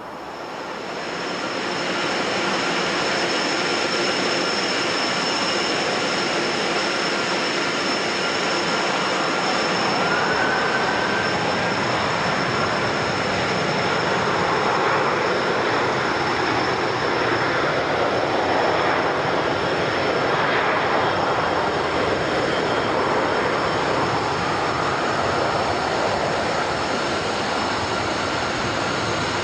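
Jet airliner's engines running loud and steady as the plane passes, building over the first two seconds, with a rushing roar and a high steady whine on top.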